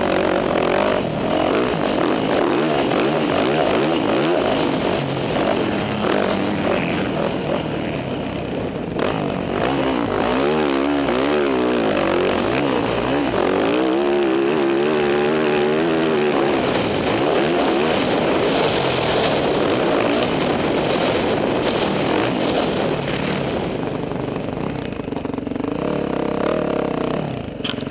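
Dirt bike engine running hard while being ridden, its pitch rising and falling again and again as the throttle is worked and gears change, with a rush of wind noise.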